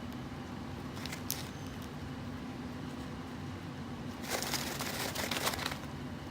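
Steady low room hum, with a couple of faint clicks about a second in and a burst of crackling, rustling handling noise from about four seconds in to nearly six seconds.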